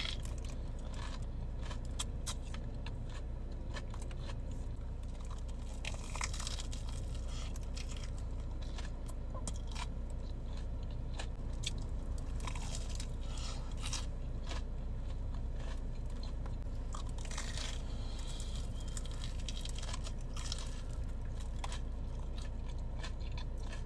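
Close-miked crunching and chewing of a crispy batter-fried Korean corn dog, with many scattered crisp crackles over a steady low hum.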